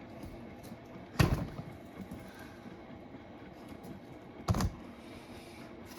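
Two sharp knocks about three seconds apart, each dying away briefly, over the low steady running of a Hotpoint WMFUG942 washing machine during its wash.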